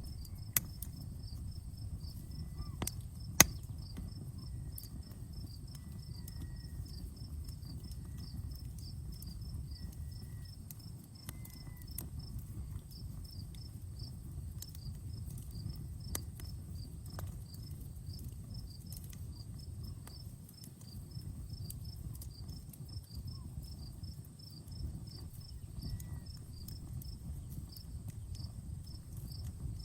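Campfire crackling with scattered sharp pops, the loudest about three and a half seconds in, over a steady low rumble. Insects chirp steadily behind it, a high chirp several times a second.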